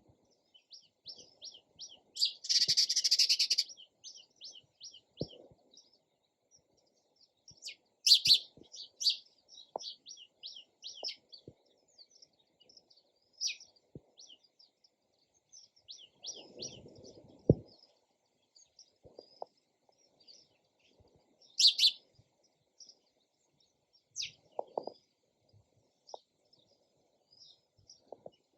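Sparrows chirping: a continual string of short, high chirps, with a loud rapid run of chirps about two seconds in and louder single chirps around eight and twenty-two seconds. A dull low rustle or thump sounds a little past the middle.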